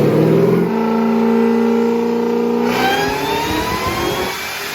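Supercharged, methanol-fuelled V8 running at full throttle on a chassis dyno during a power pull: the engine finishes revving up, holds at top revs for about two seconds, then the throttle closes and it drops off, quieter near the end.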